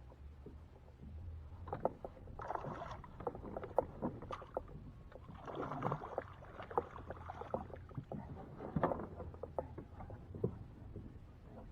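Water splashing and sloshing at a fishing kayak, with small sharp knocks, in two swells about three seconds apart.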